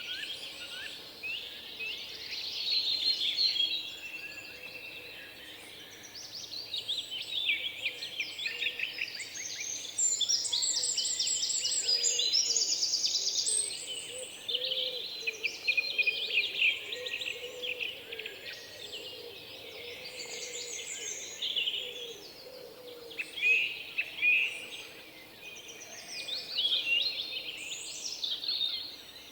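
Several small birds singing and chirping at once, a dense chorus of overlapping calls with quick trills, one fast trill standing out about ten seconds in.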